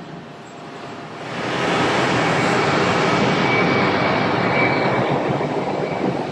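Jet airliner passing close. Its engine noise swells about a second in to a loud, steady rush with a thin high whine, then begins to ease near the end.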